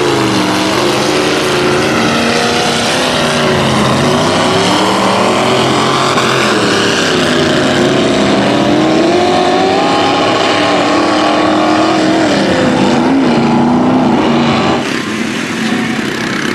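Mud truck engine revving under load, its pitch wavering up and down throughout, dropping in level near the end.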